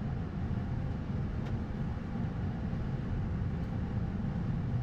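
Steady low rumble of an Airbus A220-100's flight deck on final approach: airflow and engine noise heard inside the cockpit.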